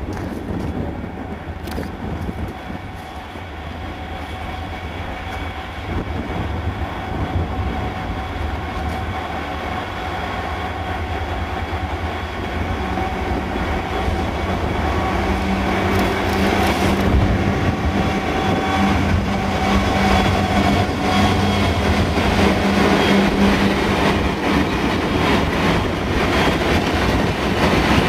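Diesel freight locomotive hauling an engineers' train, its engine note growing steadily louder as it approaches, with wheels running on the rails.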